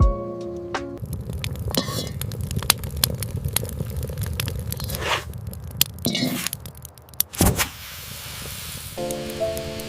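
Cooking sounds: scraping and crackling in a pan, with many small sharp clicks and one louder knock. Background music stops about a second in and returns near the end.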